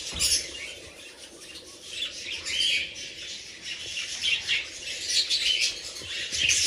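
A flock of budgerigars chirping and chattering continuously, many quick overlapping high chirps, with an occasional squawk.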